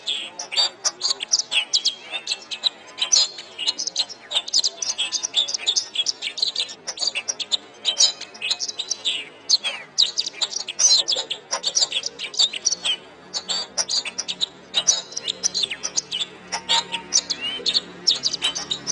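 Domestic canary singing a long, continuous song of rapid chirps, trills and short whistled glides, with hardly a pause.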